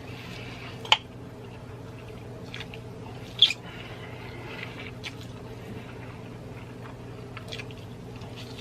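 A person chewing a big mouthful of food close to the microphone, with wet squishing and two sharp clicks, one about a second in and one past three seconds, over a steady low hum.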